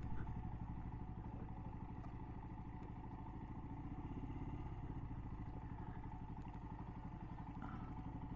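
Motorcycle engine running steadily at low revs, with even firing pulses.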